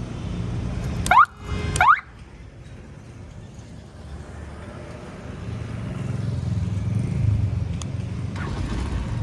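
Motorbike engine running under way, with two quick, loud rising whoops about a second in. The engine falls quiet briefly and then builds up again.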